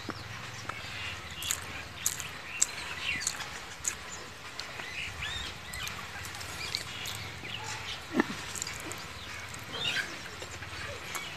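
Birds chirping in many short, scattered calls, with a sharp click about eight seconds in.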